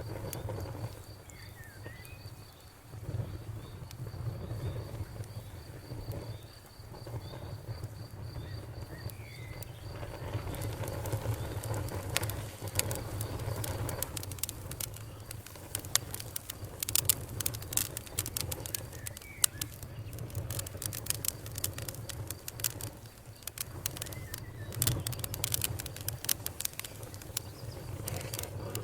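Campfire crackling, with sharp pops and snaps that come thick and fast through the second half, over a low steady rumble. A faint, high, evenly pulsing insect trill runs through the first third.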